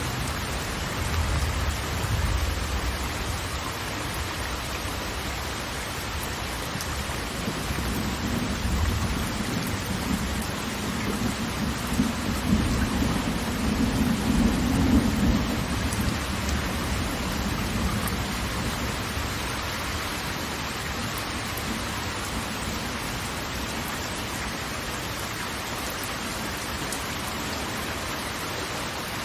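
Steady hiss of heavy falling water, like a downpour, with a deep rumble that swells twice: briefly about a second in, then longer and louder from about 8 to 17 seconds in.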